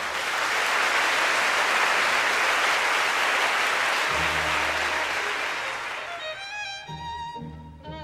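Audience applauding for about six seconds, fading out as the orchestra resumes underneath, with a violin melody coming in near the end.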